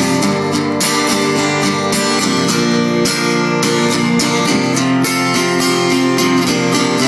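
Live rock song in an instrumental passage between sung lines: strummed acoustic guitar chords with the band playing steadily, no voice.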